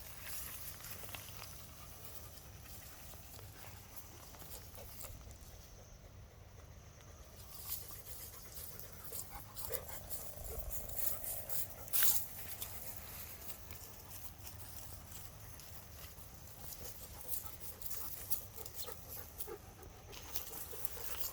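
A dog's sounds amid scattered clicks, with one sharp click about halfway through.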